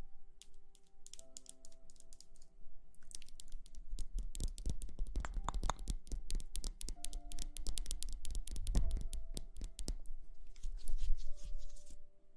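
Close-up ASMR trigger sounds: a dense, irregular run of crackling clicks, thickest in the middle, over soft background music with held tones.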